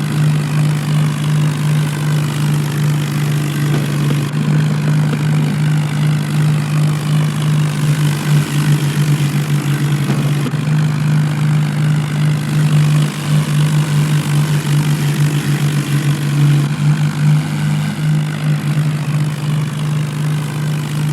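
Tractor diesel engines running with a steady low drone, straining in a tractor tug-of-war.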